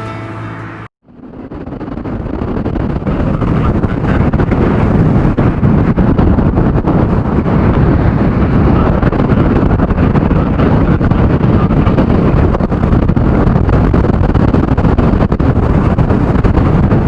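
Storm-force wind buffeting the camera microphone: a loud, steady rumble that fades up about a second in and holds.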